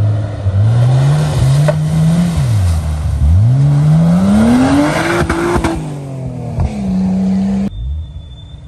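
Off-road 4x4's engine revving hard, its pitch climbing, falling and climbing again several times as it works, with a couple of sharp knocks. Near the end the engine holds a steady pitch, then the sound switches abruptly to a quieter engine running.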